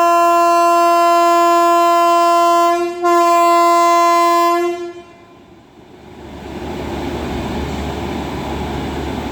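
Indian Railways locomotive horn blowing a long steady blast, briefly breaking about three seconds in and then sounding again before stopping a little before halfway. After a short lull, the rumble of a train running on the track builds up and continues.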